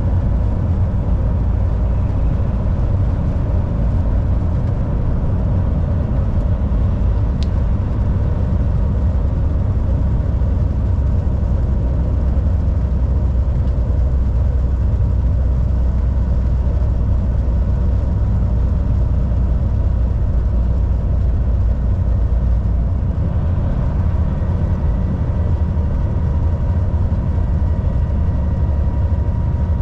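Volvo VNL 760 semi truck driving: a steady low engine drone and road noise, with a faint steady whine over it. A single short tick comes about seven seconds in.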